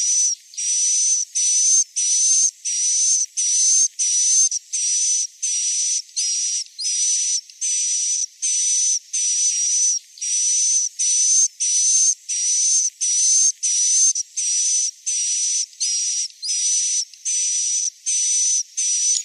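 Looped edible-nest swiftlet 'inap' lure call: a buzzy, hissy chirp with a thin high whistle running through it, repeated about one and a half times a second with short gaps. It is the roosting call played in swiftlet houses to get young swiftlets to stay and roost.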